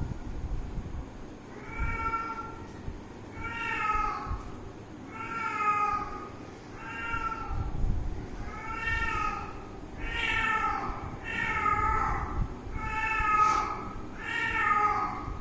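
Kitten meowing over and over: about ten high meows, each under a second long, coming a second or so apart.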